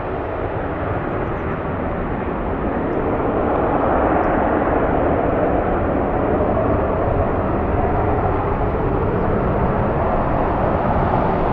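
Business jet engines running loud, a steady rushing rumble that swells about three seconds in and then holds.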